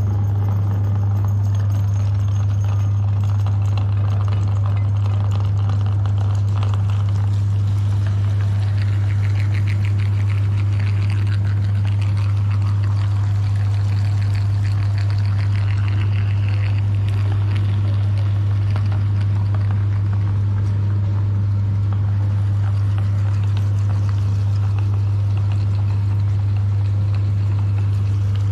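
Electric meat grinder running steadily with a loud low hum as it grinds soft ice cream.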